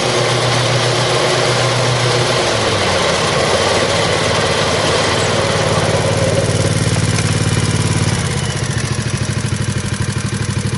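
Exmark Turf Tracer HP zero-turn mower's 17 horsepower Kawasaki engine running steadily; about eight seconds in it drops back to a quieter, lower running speed.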